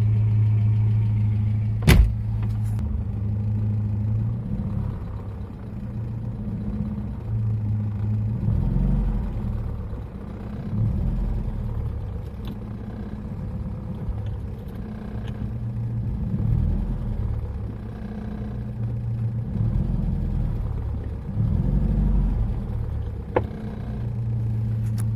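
The Volga's ZMZ-24D four-cylinder petrol engine running, its low hum rising and falling several times. A sharp click about two seconds in.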